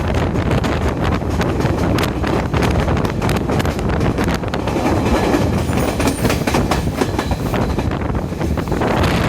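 Chinese-built diesel multiple-unit express train running at speed, heard from aboard: a loud, steady rumble with frequent sharp clicks and clatter of the wheels on the track.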